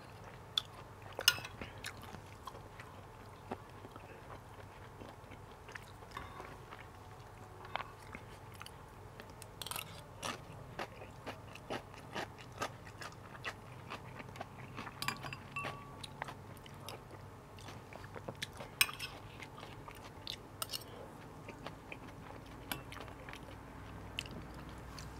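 Close-miked chewing and mouth sounds of a person eating rice with garlic fried pork, with scattered short sharp clicks and taps, the loudest about a second in.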